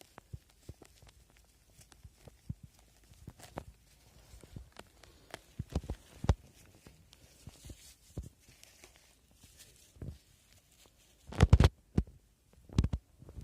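Scattered crackles and soft knocks of footsteps and handling on the forest floor while foraging for porcini mushrooms, with a louder cluster of dull thuds about eleven and a half seconds in and another near the end.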